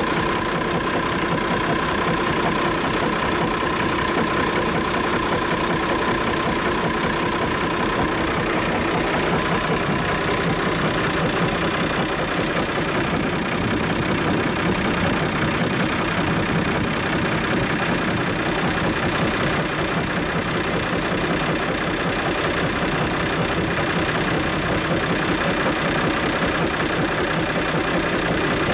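Diesel inboard engine of a Yamaha UF-33 boat idling steadily after start-up. A steady high tone sounds over it for the first eight seconds or so, then fades.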